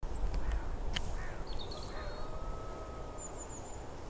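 Wild birds calling: three short harsh calls in the first two seconds, a few quick runs of high chirps, and one long steady note in the middle, over a faint low rumble.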